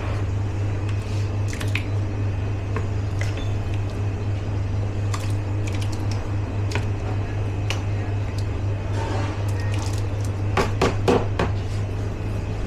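Kitchen work sounds over a steady low hum: scattered light clicks and clatter of dishes, utensils and containers being handled, with a quick run of louder knocks near the end.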